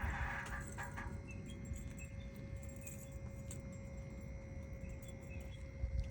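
Keys jangle briefly, then a steady electronic tone with a higher one above it holds over a low rumble, as the ignition of a Ram with a Cummins diesel is switched on before the engine is cranked.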